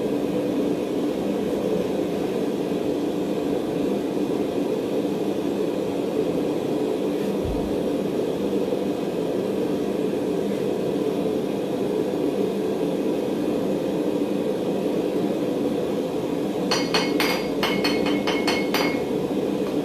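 A steady low roar throughout. About three seconds before the end comes a quick run of sharp metallic clinks and taps on steel, several of them ringing briefly.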